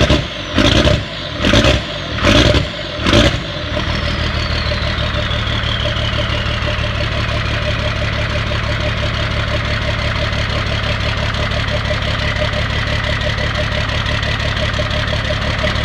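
1995 Dodge Ram 2500's 12-valve Cummins 5.9-litre inline-six turbo diesel blipped about five times in quick succession, then dropping back to a steady diesel idle as the turbo whine falls away.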